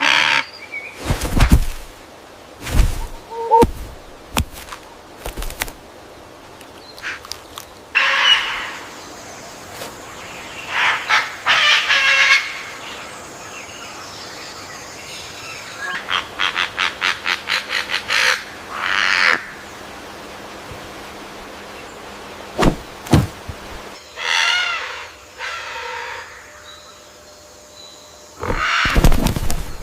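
Wild birds calling in separate bouts, including harsh, pitched calls and a quick run of about ten notes a little past the middle, with several sudden loud knocks among them.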